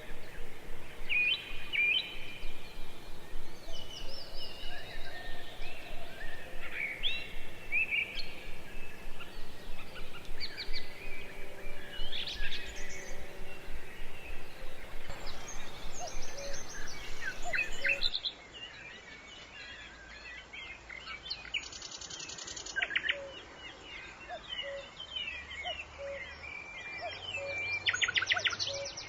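Birds chirping and calling, many short chirps and quick whistled glides. About two-thirds of the way through, the sound changes abruptly and becomes quieter, with birds still calling.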